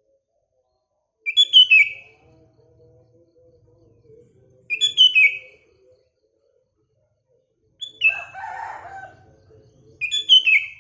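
Sooty-headed bulbul (kutilang) singing a short phrase of falling notes four times, about every three seconds. A lower, rougher call from another bird overlaps the third phrase.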